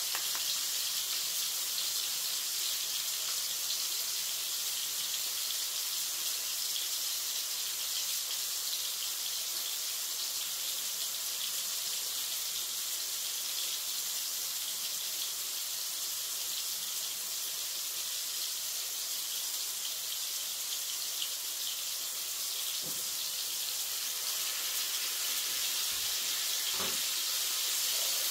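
Minced-lamb kebab patties sizzling steadily in a frying pan, with a couple of light knocks near the end.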